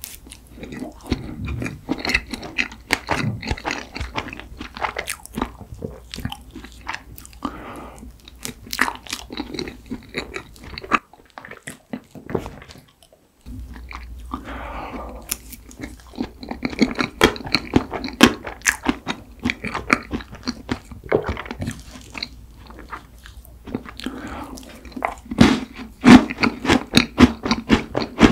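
Close-miked eating sounds of mint chocolate ice cream cake with chocolate pieces: chewing, mouth clicks and crunching. They stop for about two seconds a little before the middle, and the clicks are loudest near the end.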